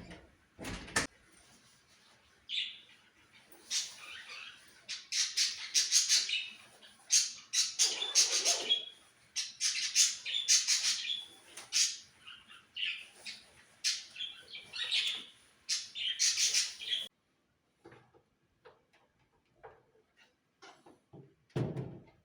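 Birds chirping and calling in quick, busy bursts, with one fuller, lower call about eight seconds in; the birdsong stops abruptly about seventeen seconds in, leaving a few faint knocks.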